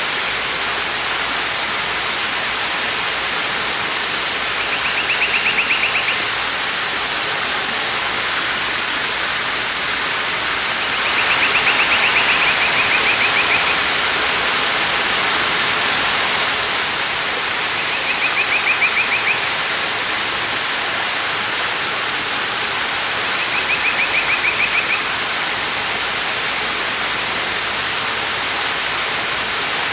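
Waterfall rushing steadily. Over it, a short, high, rapid trill repeats five times, about every six seconds.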